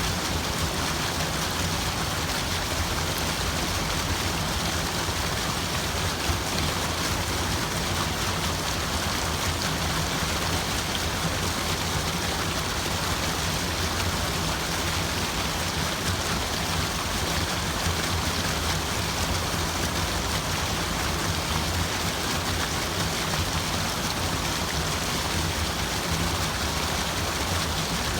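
Steady, unbroken rushing water with an even hiss, like rain or a running stream, without distinct splashes.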